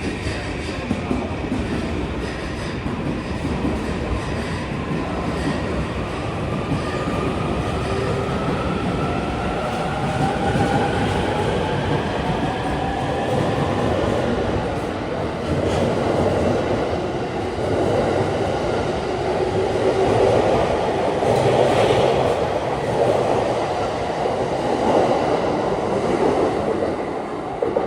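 JR East E231-1000 series electric train pulling away from the platform: its traction motors whine in tones that rise steadily in pitch as it accelerates. Then the rumble and clatter of the passing cars grow louder.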